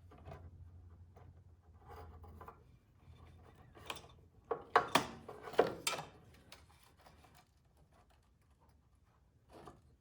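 Hands handling and fitting a snowblower carburetor: light rubbing and scraping, then a cluster of sharp clicks and knocks of metal parts about four to six seconds in.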